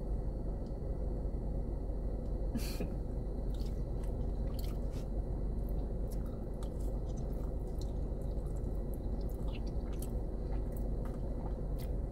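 A person chewing a mouthful of macaroni and cheese, with scattered soft mouth clicks, over a steady low hum.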